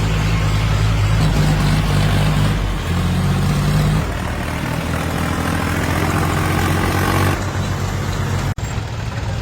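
Tractor diesel engines running loud and steady, with the engine note changing abruptly a few times as clips are cut together. In the middle one engine rises slowly in pitch as it revs up.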